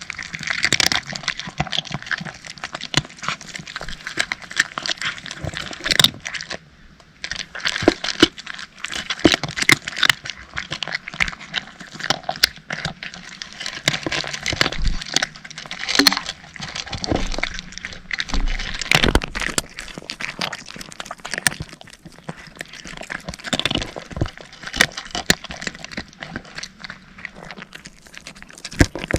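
Cats chewing dry kibble: a dense run of crisp crunches and clicks, with a brief lull about six and a half seconds in.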